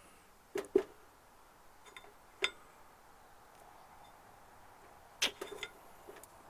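A handful of short, sharp clicks and knocks, a close pair under a second in being the loudest, then single ones about two and a half seconds in and a small cluster past the five-second mark, over a low steady hiss.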